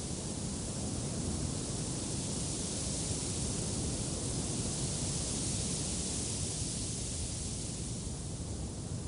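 Wind blowing steadily: a broad rushing hiss over a low rumble, swelling a little in the middle and easing near the end.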